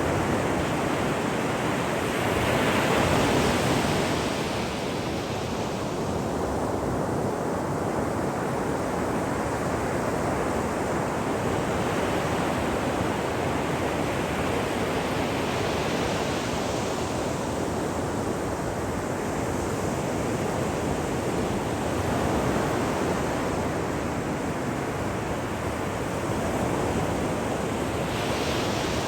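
Ocean waves breaking on a shore: a continuous surf hiss that swells and ebbs as each wave comes in, every several seconds.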